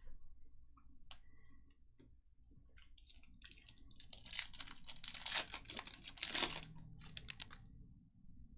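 Crinkling and tearing of a trading-card pack's wrapper being opened, loudest from about four to seven seconds in, after a few small clicks of cards being handled.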